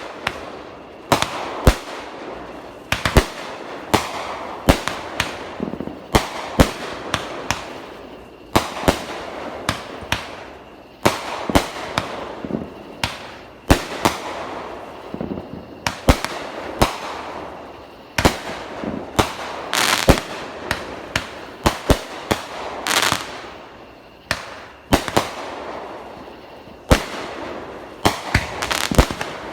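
Fireworks going off in quick succession: sharp bangs every second or so, each trailed by crackling that fades.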